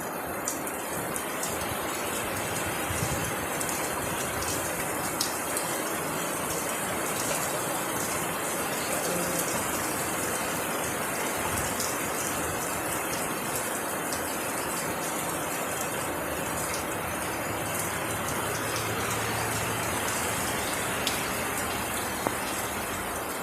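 Steady hiss of heavy falling water, with scattered drop impacts.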